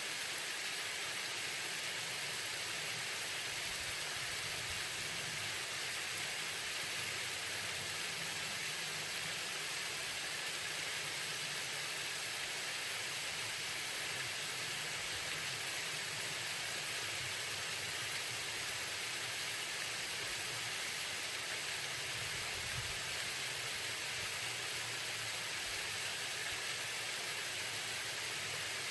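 Waterfall: a steady, hissing rush of falling water that holds even throughout.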